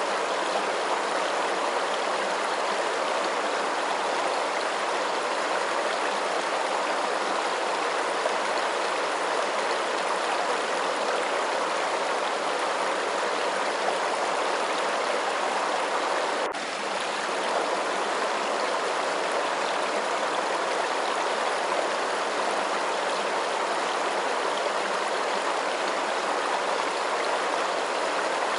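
Steady rush of flowing water, even and unbroken, with a brief dip and faint click a little past halfway.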